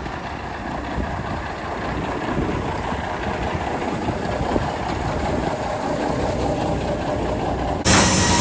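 Old truck running with a load of logs, a steady engine rumble with rattling from the truck and its load. Near the end the sound cuts abruptly to a louder, steady hum.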